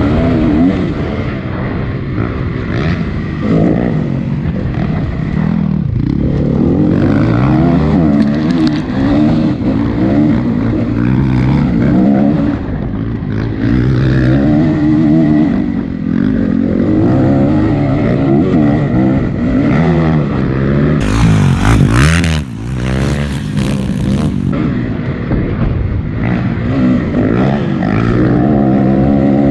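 Honda CRF250 four-stroke single-cylinder dirt bike engine, heard from the bike-mounted camera, revving up and dropping back again and again as the rider throttles through the track's jumps and corners. About three-quarters of the way through, a brief loud rushing noise covers the engine.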